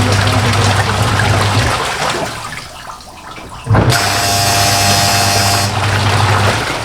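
Samsung semi-automatic top-loading washing machine's motor running with a loud, steady low hum. It runs for about two seconds, dies away, then starts again about a second and a half later, the way the wash pulsator runs in spells.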